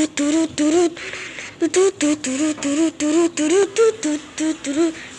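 A voice making rhythmic, beatbox-like mouth sounds: a quick run of short pitched syllables, about two or three a second, with breathy hissing strokes between them.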